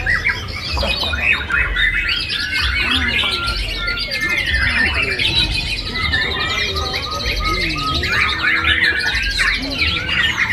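Many caged songbirds singing at once in dense, overlapping chirps and whistles. A long, fast trill runs from about four to eight seconds in.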